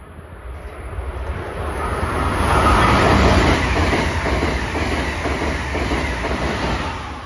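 Amtrak Acela high-speed electric trainset passing at speed: a rushing wheel-on-rail and air noise that swells to its loudest about three seconds in, holds while the cars go by, then falls away sharply near the end as the rear power car passes.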